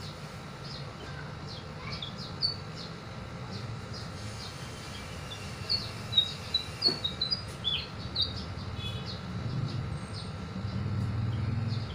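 Small birds chirping: many short, high chirps, with a quick burst of louder ones about halfway through, over a low steady rumble that swells near the end.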